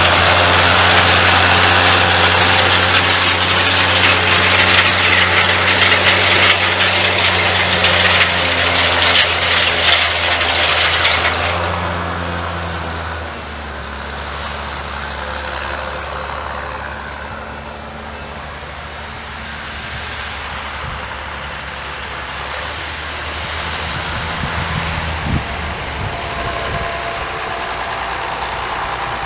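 John Deere 6810 tractor's six-cylinder diesel engine running steadily with a loud hiss over it. About twelve seconds in the sound drops to a quieter, even engine hum.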